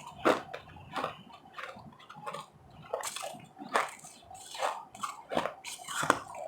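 Ice being chewed close to the microphone: a steady run of sharp, wet crunches, roughly one every three-quarters of a second.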